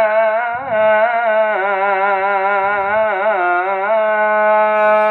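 Male munshid's voice holding a long, ornamented melismatic note in an Arabic religious ibtihal, the melody gliding and trilling, over a steady low drone.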